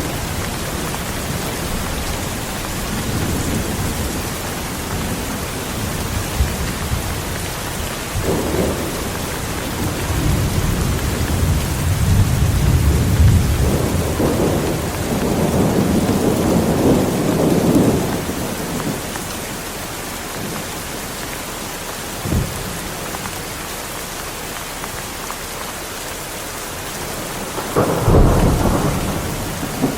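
Heavy rain falling steadily, with thunder rolling and rumbling through the middle stretch, a short sharp crack about two-thirds of the way in, and a louder thunderclap near the end.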